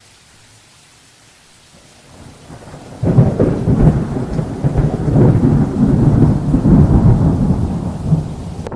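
Thunder: a faint low rumble building, then about three seconds in a sudden loud rolling rumble that goes on for about five seconds and starts to ease near the end.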